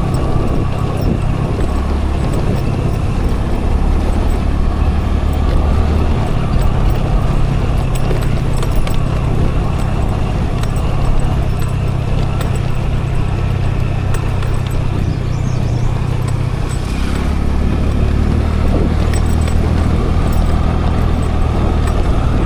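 Scooter engine running while riding, with wind and road noise rushing over an action camera's microphone. The engine's low hum changes pitch a few times: about two seconds in, around six seconds in, and again near seventeen seconds in.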